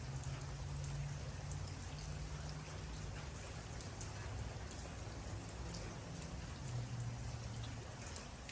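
Steady rain falling, with scattered individual drops ticking sharply over the hiss, above a low steady rumble.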